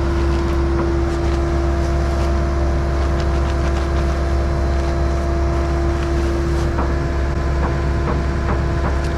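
Heavy-equipment diesel engine running steadily, with a steady whine held over it and a few faint clicks in the second half.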